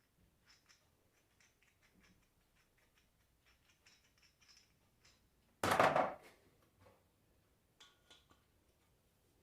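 Small metal alternator parts being handled and fitted together on a workbench: light scattered clicks and ticks, with one loud, short noisy burst a little past the middle.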